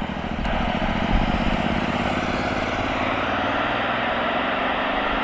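Freight train rolling past on the rails: a steady rush of wheel and car noise, with faint rising engine tones coming in near the end.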